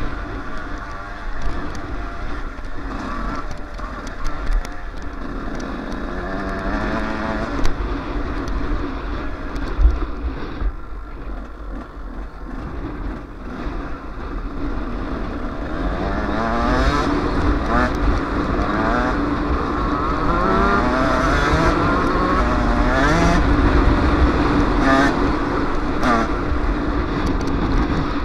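Yamaha YZ125 two-stroke motocross engine on the camera bike, revving up and shifting through the gears again and again, with low wind buffeting on the microphone. The engine eases off for a few seconds around the middle, then revs hard through most of the second half, and there are a couple of sharp knocks early on.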